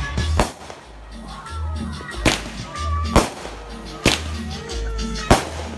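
Aerial fireworks going off: five sharp cracks at uneven gaps of about a second, over background music with a slow, steady bass beat.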